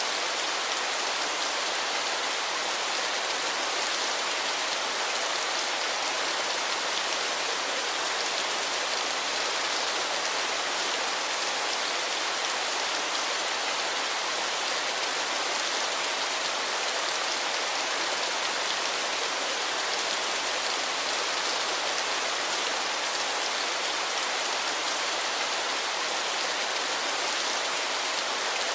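Steady, unbroken rush of falling water: an even hiss weighted to the higher pitches, with little low rumble.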